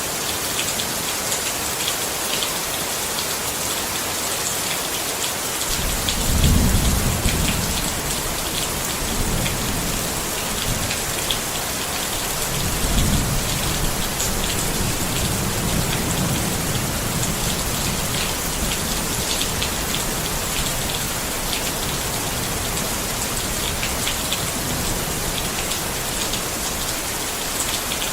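Rain falling steadily on a tent, with fine drop ticks throughout. Thunder rumbles about six seconds in and again, more briefly, around thirteen seconds, then fades into a low rolling that dies away.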